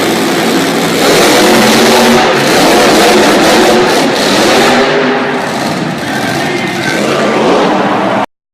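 Monster truck engine revving very loudly, its pitch climbing and falling. It cuts off abruptly near the end.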